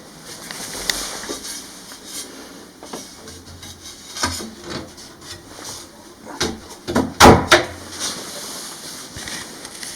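Scattered wooden knocks and rubbing, like a door or drawer being handled, with a louder cluster of two or three knocks about seven seconds in.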